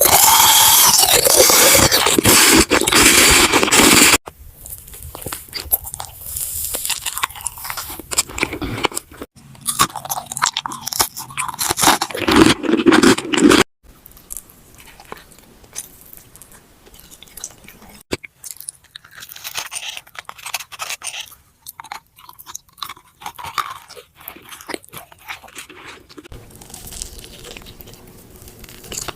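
Close-miked ASMR eating: crunchy bites and chewing of food, one person after another in a string of short clips. It is loudest for the first four seconds and again a little before the middle, and softer and sparser later on.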